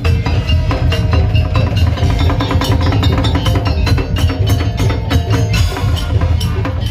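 Madurese tong-tong (ul daul) percussion ensemble playing: fast, dense knocking on wooden and bamboo slit drums over drums and a heavy bass.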